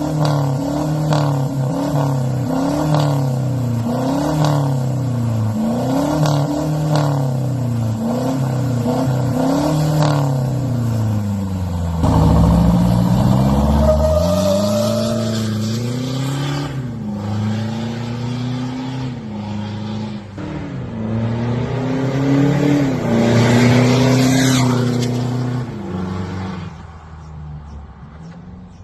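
Toyota Hilux pickup with an aftermarket downpipe exhaust, revved in a series of quick blips about every second and a half, then a longer, deeper rev about twelve seconds in and further revs held higher for a few seconds. The engine sound fades away near the end.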